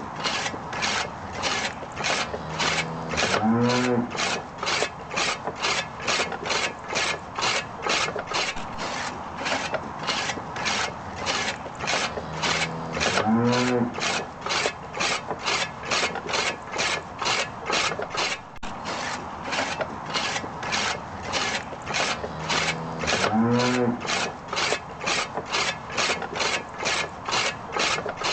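Rhythmic rasping strokes from a small mechanism, about two a second and very even, with a short wavering squeal every ten seconds or so.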